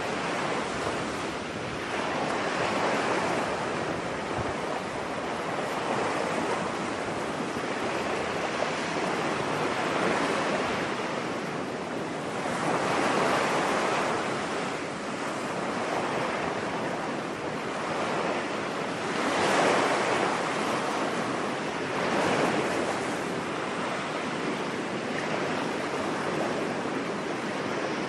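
Ocean surf on a beach: a steady rush of waves breaking and washing in, swelling louder with each wave every few seconds.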